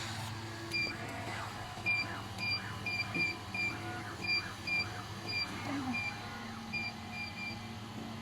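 About fourteen short, high electronic beeps at uneven intervals from the LM-2000W fiber laser welding machine, over the machine's steady low hum.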